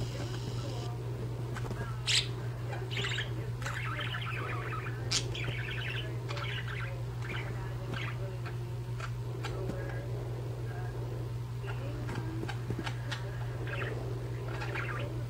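Two budgerigars chirping, with many short, irregular chirps and chatter and a couple of sharper, louder chirps, over a steady low hum.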